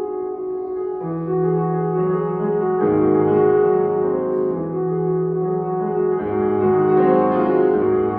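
Solo piano playing classical music: sustained chords over a moving upper line, with deeper bass notes coming in about a second in, near three seconds and again just after six seconds.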